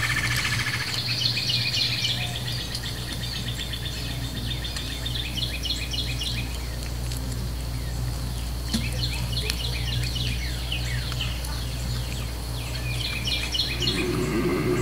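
Birds chirping in repeated short, quick phrases, over a steady low hum.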